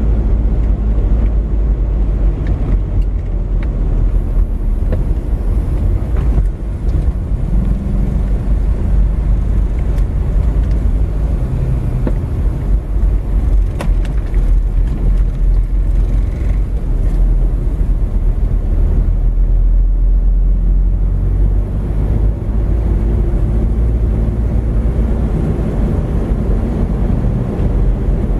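Steady low rumble of a car's engine and tyres, heard from inside the cabin as it drives along a street, with one brief click about halfway through.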